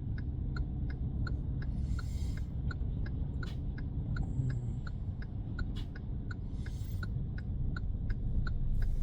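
Car turn-signal indicator ticking evenly, about three clicks a second, over the low rumble of the idling car's cabin.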